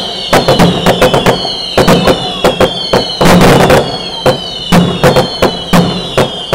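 Fireworks going off in a rapid, irregular string of sharp cracks and bangs, several a second. Under them runs a high whistle that slowly falls in pitch.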